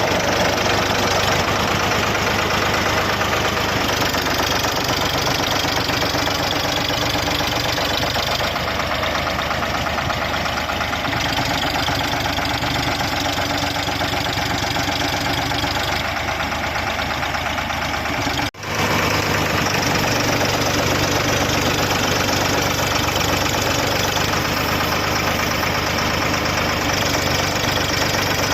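Air compressor's engine running steadily under a dense hiss, with a brief dropout about two-thirds of the way through.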